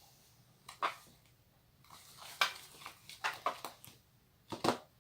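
Glue-and-activator slime being stirred as it firms up. There are irregular sticky squelches and clicks from the mixture and the mixing tool against the bowl, a cluster a little after three seconds and a sharper pair near the end.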